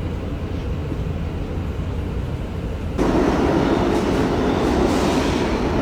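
Subway train running: a steady rumble of wheels on rails, which abruptly gets louder and harsher about three seconds in.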